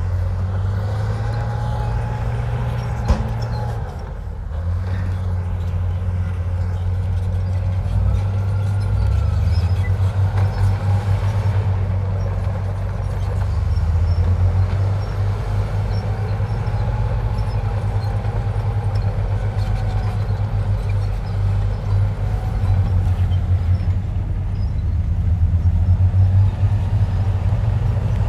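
Heavy diesel engine of a Komatsu bulldozer running under load, its low rumble rising and falling in speed as it pushes dirt, with a faint whine coming and going above it. There is a single sharp knock about three seconds in.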